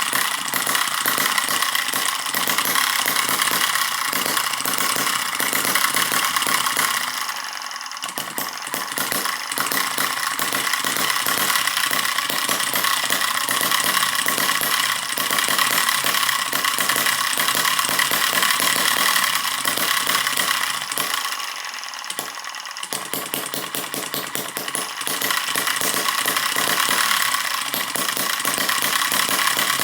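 Eachine EM2 miniature four-stroke gasoline engine running with a fast, even firing beat and some rattle. Twice it goes briefly quieter and thinner before picking up again.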